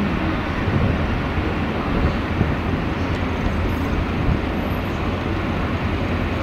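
A train running past at close range: a steady, loud noise with a strong low rumble.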